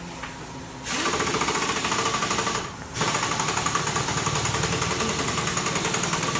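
Bajaj Pulsar 200NS single-cylinder engine, freshly rebuilt, starting up and running with a fast, even rattling beat; it cuts out briefly near the middle and picks up again.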